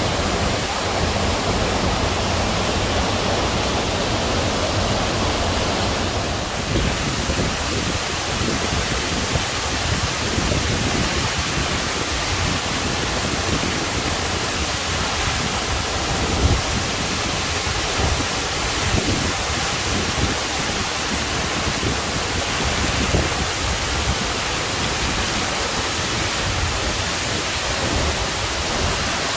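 Steady rush of the Marmore Falls, a tall waterfall crashing down in heavy white-water cascades, heard as a constant, even wash of noise, with a brief low bump about halfway through.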